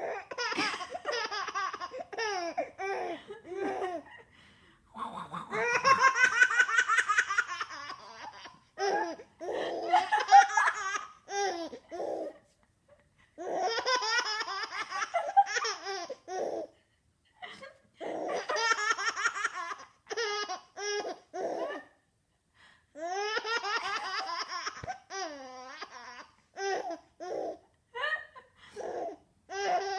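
Six-month-old baby girl laughing hysterically in repeated bouts of a few seconds each, set off by her mother's funny vocal noises.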